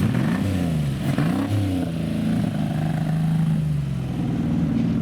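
Banger racing cars' engines revving, the pitch dipping and climbing twice in the first two seconds, then running at a steady pitch.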